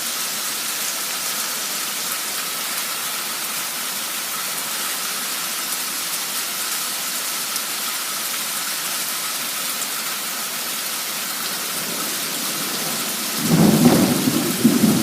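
Torrential downpour: the steady hiss of heavy rain. About thirteen seconds in, a low rumble of thunder comes in and is the loudest thing heard.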